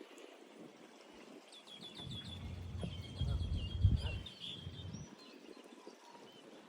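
A bird calling a quick run of short, high chirps, over a low rumble that swells in the middle and fades about five seconds in.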